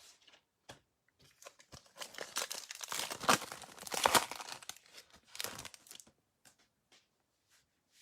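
Trading card pack's wrapper being torn open and crinkled by hand, a crackling rustle with sharp snaps for several seconds.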